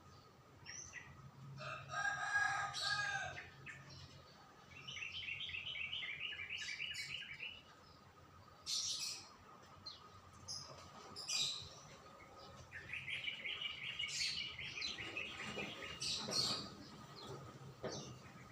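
Birds singing: two long runs of rapid, evenly repeated high chirps, about five seconds in and again near thirteen seconds, with scattered short chirps and a longer, lower call near two seconds in.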